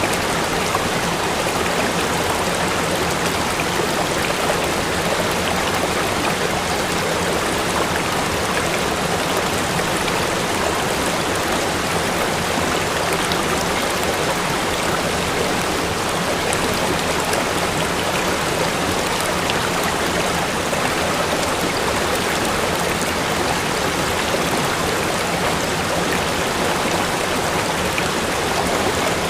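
Steady rush of water from a waterfall, an even wash of noise with no change in level.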